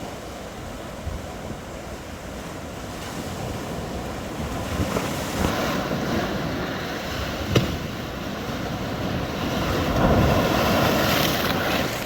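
Jet airliner's engine roar building steadily louder, mixed with wind buffeting the microphone, and a single sharp click about seven and a half seconds in.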